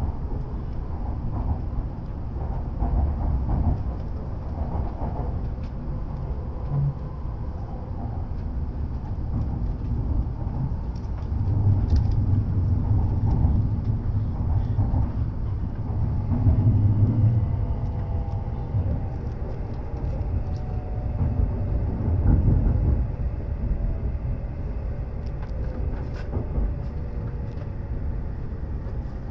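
W7 series Shinkansen heard from inside a passenger car: a steady low running rumble from the wheels and track, with faint motor whines that fall slowly in pitch over the second half as the train slows.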